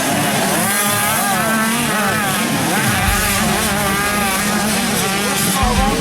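Motocross bikes racing, several engines revving up and down in quick rises and falls, with a deeper rumble coming in about halfway through.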